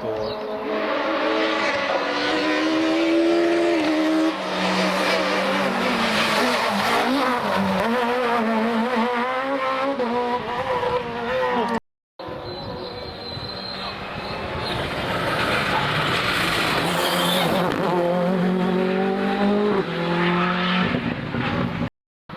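Rally car engines at high revs as cars drive through a special stage, the pitch rising and falling with gear changes and throttle, with tyre and road noise underneath. There are two separate passes, split by a short silent cut about halfway through.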